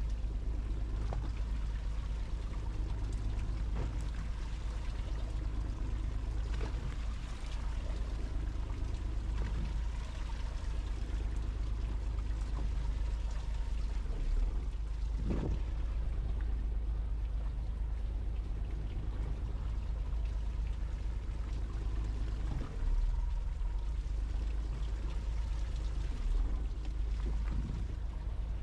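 Fishing boat's engine running steadily with a low hum, under a constant hiss of water.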